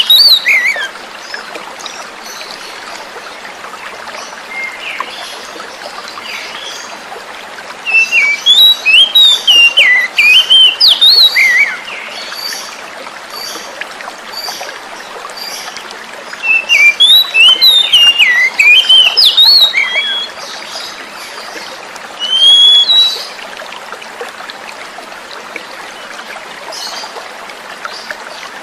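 Oriental magpie-robin (kacer) singing in bursts of quick, varied whistled phrases, over a steady sound of running water. The song breaks off just after the start, returns from about 8 to 12 seconds and from about 16 to 20 seconds, and a short call comes at about 22 seconds.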